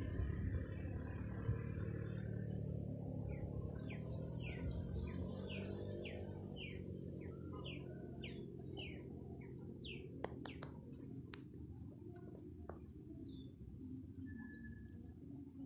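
A bird calling a run of short falling notes, about two a second, over a steady low rumble. A few sharp clicks follow near the middle, then faint high chirps of other birds.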